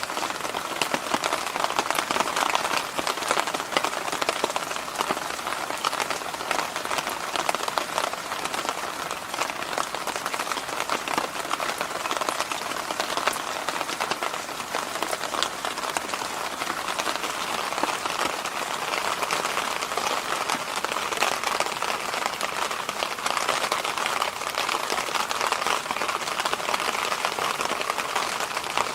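Electric fan running steadily: an even whooshing noise, strongest in the middle range, with a fine crackle running through it.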